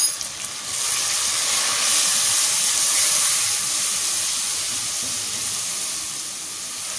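Onion, tomato and spice masala sizzling in hot oil in a pot as it is stirred with a spatula; a short sharp sound at the very start, then the sizzle swells about a second in and slowly dies down.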